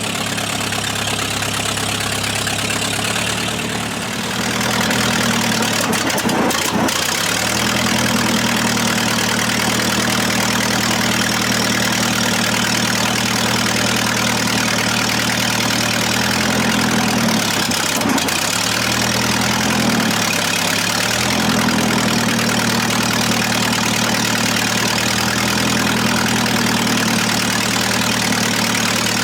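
An engine idling steadily, its speed dipping and coming back up twice.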